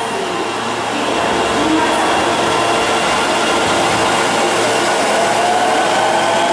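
Sennichimae Line subway train pulling out of the station: a steady rush of running noise, with a motor whine rising in pitch from about halfway through as it gathers speed.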